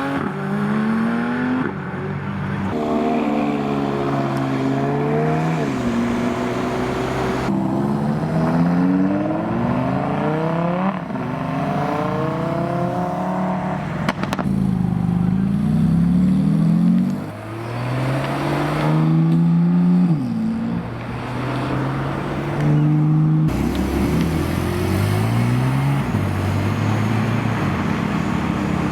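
Supercar engines revving hard as they accelerate away, each rising in pitch and then dropping back at a gear change, over and over, in several separate runs.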